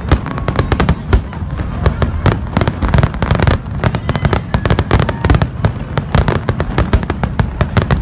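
Fireworks barrage: many aerial shells bursting in rapid, overlapping bangs, several a second, over a continuous low rumble.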